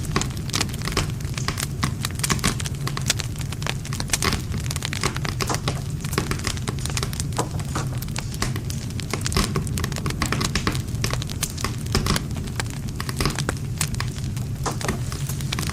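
Wood campfire crackling: a dense, irregular stream of pops and snaps from burning wood over a steady low rumble of the flames.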